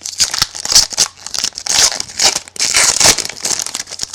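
Trading-card pack wrapper being torn open and crinkled by hand, a dense run of loud crackling and tearing.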